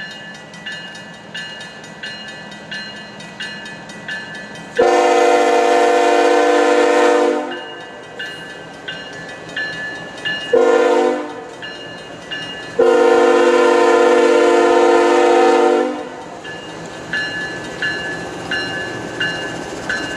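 Locomotive air horn sounding three blasts, long, short, long, over a railroad grade-crossing bell ringing steadily about twice a second: the horn signal of a train approaching a crossing.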